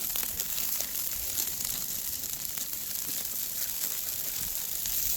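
Burgers sizzling on a grill as a steady hiss, with scattered light crackles and some crinkling.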